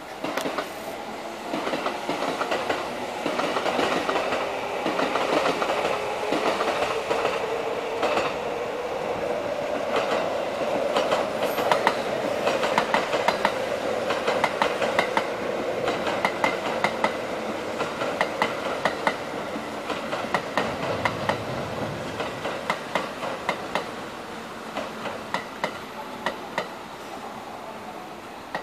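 A Kintetsu limited express electric train running past, its wheels clacking over rail joints and points in quick clusters. The rolling noise builds to its loudest about halfway through, then fades to scattered clacks as the last cars go by.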